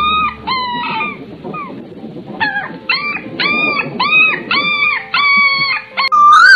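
Dog whining: a run of short, high, arching whimpers, each about a third of a second long, with a pause about a second in before a faster string of them. A loud, clear whistled note cuts in just before the end.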